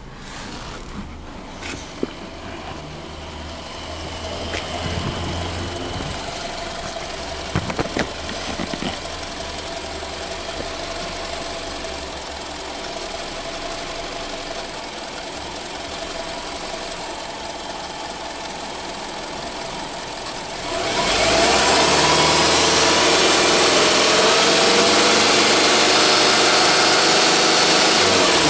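Subaru Legacy 2.0R's EJ20 flat-four engine idling steadily, with a few sharp knocks in the first several seconds. About 21 seconds in, a much louder steady rushing sound comes in and holds for about seven seconds before dropping away near the end.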